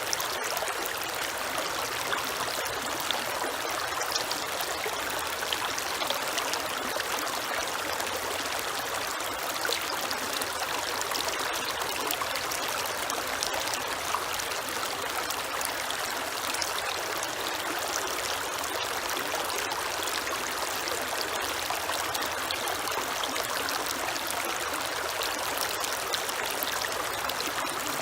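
Creek water flowing steadily over stones, with an even rushing and small trickling splashes.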